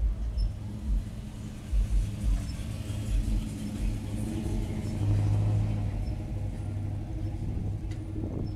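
A car engine running at low revs, with a low steady note that grows loudest about five seconds in. Irregular low thumps come through in the first few seconds.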